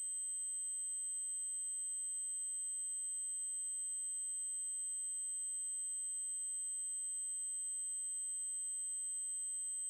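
Generated 8192 Hz triangle-wave tone: a single steady, high-pitched tone held unchanged throughout.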